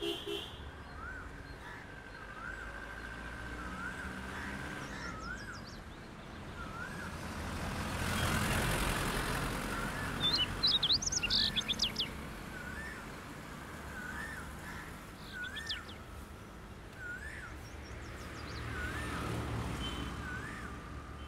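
Birds calling: a short rising-and-falling note repeated about once a second, and a quick burst of high, sharp chirps between ten and twelve seconds in, the loudest moment. A rushing noise swells and fades around eight to nine seconds in.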